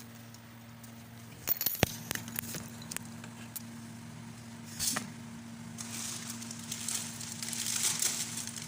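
Kitchen handling while starting to cook instant noodles: a few sharp clinks and knocks of cookware over a steady electric hum, then a hiss building over the last few seconds.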